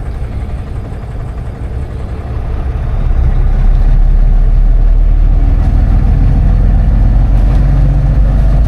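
Semi-truck diesel engine running with a steady low rumble. It grows louder about three seconds in, then holds steady.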